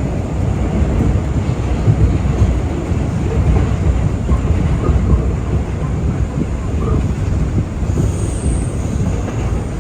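New York City subway C train running on its rails, a loud, steady low rumble. A faint high tone comes in about eight seconds in.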